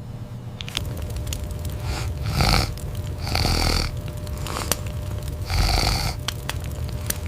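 Snoring: three breathy snores a second or two apart, over a steady low hum.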